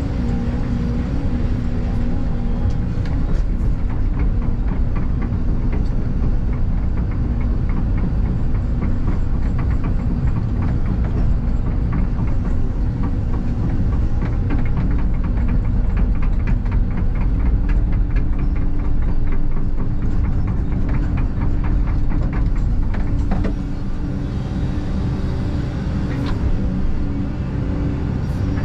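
Excavator engine and hydraulics running steadily under load, with a stretch of rapid clicking and clatter through the middle and a change in the engine note partway through.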